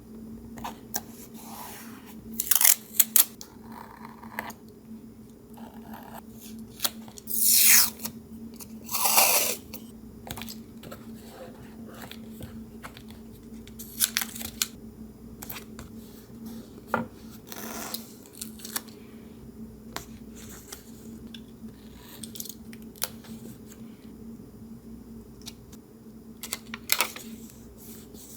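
Paper being handled for a collage: intermittent short crisp rustles and scrapes, with two longer, louder rasping strokes about 7.5 and 9 seconds in, over a steady low hum.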